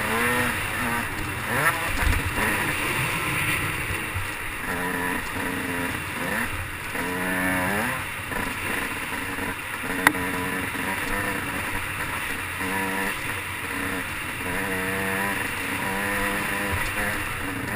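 Motocross dirt bike engine revving up and down as it is ridden, its pitch climbing in repeated rises and dropping back at each shift, over a steady rush of wind noise. A single sharp click about ten seconds in.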